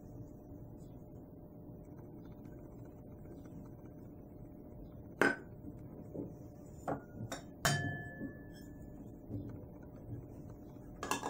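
Small metal prep bowls clinking against a ceramic mixing bowl as flour and chili powder are tipped in: a few sharp clinks in the second half, one of them ringing briefly, over quiet room tone.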